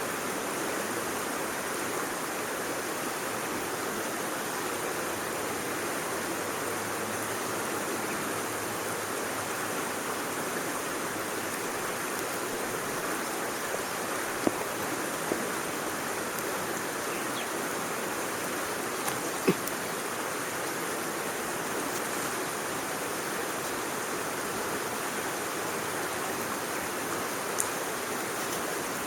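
Steady, even rushing noise, with a few short sharp clicks or snaps, a pair about halfway through and one near the end.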